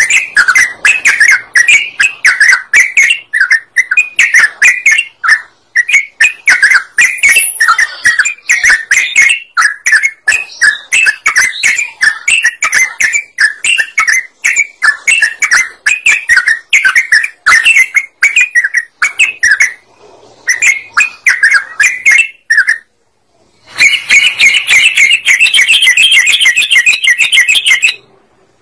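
Yellow-vented bulbul (trucukan) singing: a long run of rapid, loud, bubbling chirps, broken off once briefly about two-thirds of the way through and resuming as denser chattering.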